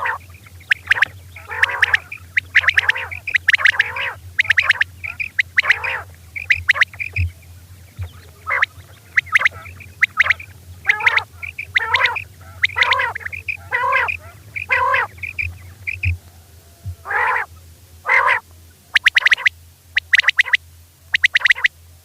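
Female quail calling over and over in short, harsh notes, about one or two a second, breaking into quicker runs of rapid notes near the end. A steady low hum runs underneath.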